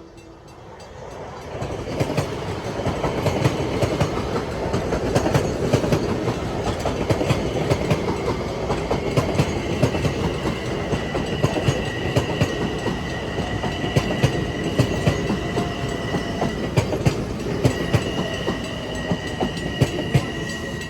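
Electric commuter train running through the station, wheels clicking over rail joints above a steady rumble that builds after the first second or two. A steady high whine joins about ten seconds in, breaks briefly and then comes back.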